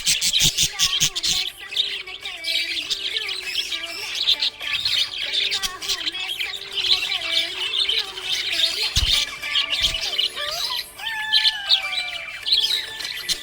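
Small pet parrots chirping and twittering continuously, with many rapid high calls overlapping.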